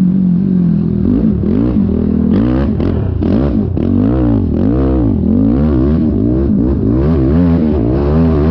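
ATV engine revving up and down about twice a second under hard riding, with a few short clattering knocks from the machine a couple of seconds in.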